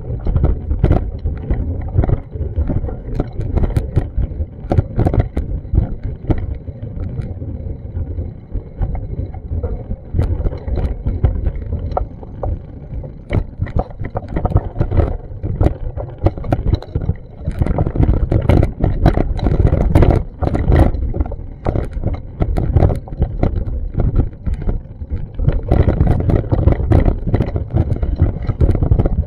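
Action camera's microphone buffeted by wind: a loud, uneven low rumble that swells and drops constantly, heavier from about 17 s in, with many short knocks mixed in.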